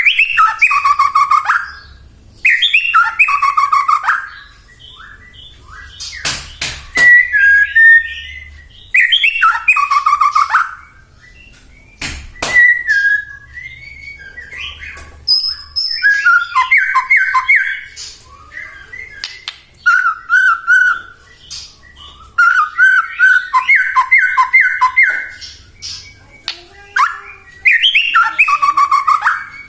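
White-rumped shama singing in loud, varied phrases of whistles and rapid trills, with short pauses between phrases and a few sharp clicks.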